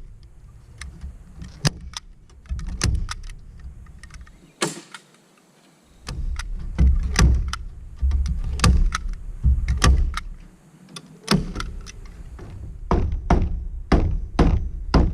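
Sharp, irregular tool strikes, bunched several a second in the second half, from fastening chicken wire onto a chicken tractor.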